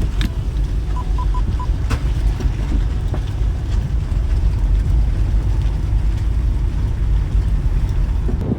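Car running, heard as a steady low rumble, with four quick high beeps about a second in.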